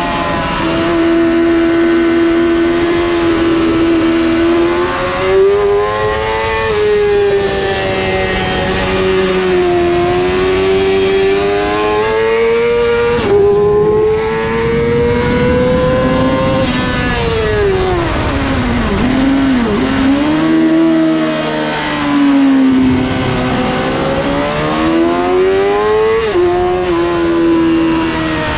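A 2007 Yamaha YZF-R6's inline-four engine running hard at high revs. The pitch climbs through the gears and drops sharply at each upshift. Just past halfway it falls away through several downshifts, then pulls up the revs again.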